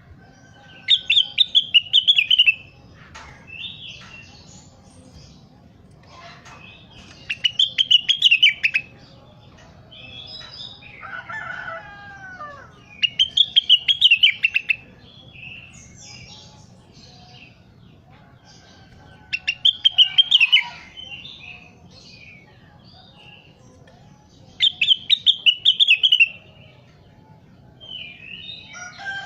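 A rengganis songbird singing loud, rapid trilled phrases about every six seconds, each lasting a second and a half or so. Softer chirps and calls fill the gaps, including a lower falling call about halfway through.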